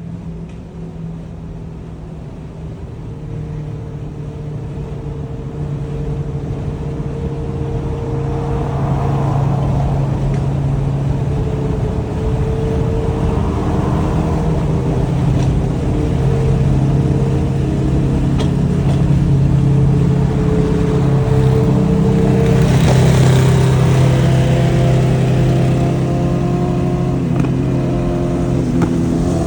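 Superbike engine and full titanium exhaust running at a steady, mostly even pitch at highway speed, growing louder over the first ten seconds or so and then holding, with a brief rush of noise about two thirds of the way through.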